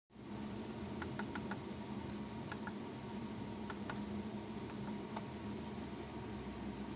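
A few short, light clicks, scattered in small groups over the first five seconds, over a steady low electrical hum.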